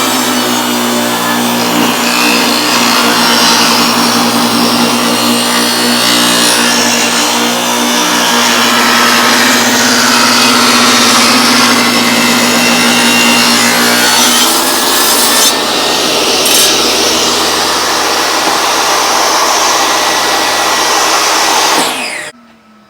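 Power saw ripping a walnut board down to about 7/16 inch thick, a loud steady cutting noise over the motor's hum that changes character about two thirds of the way through. Near the end the saw is switched off: the noise stops abruptly and the motor winds down with a falling tone.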